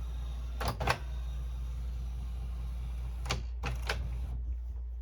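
Canon Pixma inkjet printer's mechanism clicking as it runs its power-up routine: a pair of sharp clicks about a second in, then three more a few seconds later, over a low steady hum.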